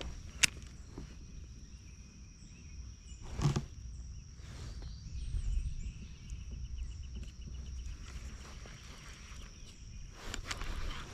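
Gear handled in a kayak: a sharp click about half a second in and a louder dull knock about three and a half seconds in, over a steady low rumble and a faint, thin high-pitched drone.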